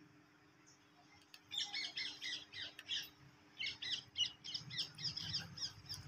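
Birds chattering in fast runs of high chirps: one burst about a second and a half in, then a longer run from about halfway to the end.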